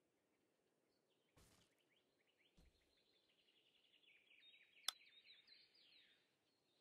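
Faint bird chirping, a run of quick repeated high notes, with one sharp click about five seconds in and two soft knocks earlier on.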